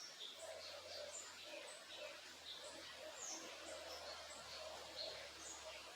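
Several small birds chirping, with short high chirps and quick glides several times a second, over a steady, faint hiss of running creek water.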